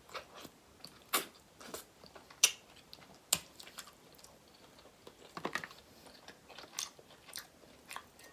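Close-miked chewing and biting of seafood, with irregular sharp, wet clicks of the mouth about once a second.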